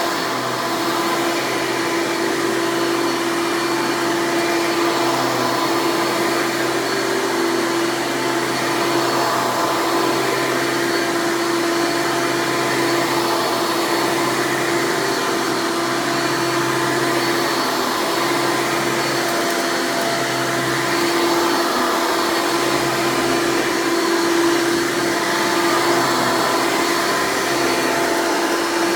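1996 Hoover Legacy Dirt Finder (U5103-930) upright vacuum running steadily on its 7.2 amp direct-air motor, a loud, even whine.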